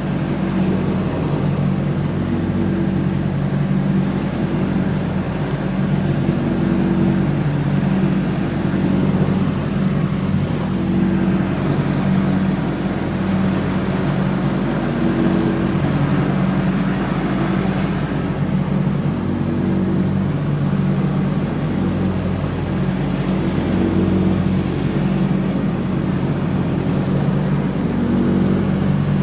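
John Deere 304X lawn tractor engine running steadily while mowing, its note swelling and easing slightly every few seconds.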